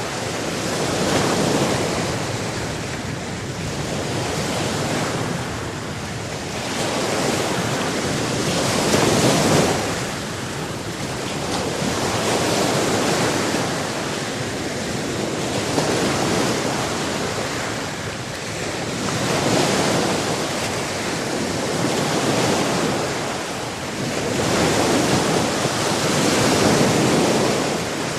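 Sea waves breaking on a shore, the surf swelling and falling away in slow surges every few seconds, with some wind.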